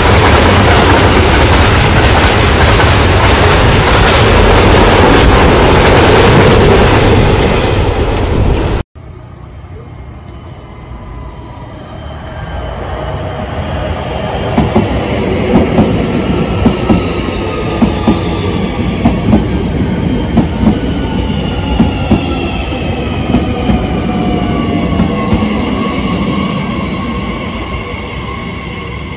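A freight train of hopper wagons rolling past close by, a loud steady rumble, which cuts off abruptly about nine seconds in. Then an SNCF Transilien electric multiple unit approaching and slowing: its motor whine falls in pitch, and its wheels click sharply over the rail joints as it comes near, before the sound fades.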